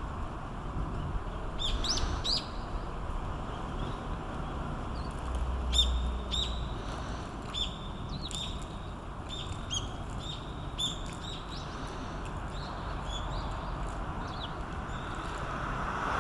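Short, high bird chirps, each dropping in pitch at its end, repeated irregularly over a steady outdoor hiss. They come thickest in the first ten seconds or so and thin out after that.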